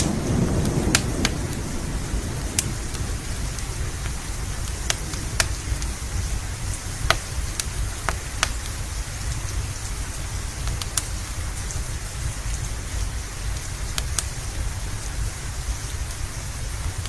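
Steady rain with a low rumble, the tail of a thunder roll dying away in the first second. A wood fire crackles with scattered sharp pops over it.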